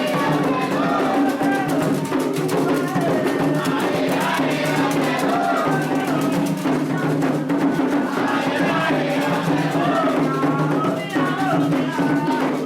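Candomblé toque for Logun Edé: atabaque drums keep up a steady, dense rhythm while voices sing a chant over them.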